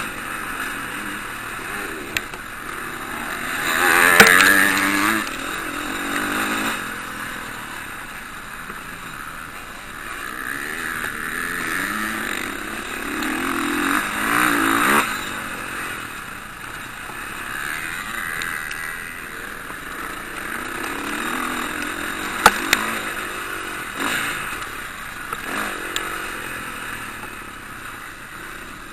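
Motocross bikes racing, their engines revving up and down as they pass. The loudest pass comes about four seconds in and another around fourteen to fifteen seconds, with a couple of sharp clicks a little after twenty-two seconds.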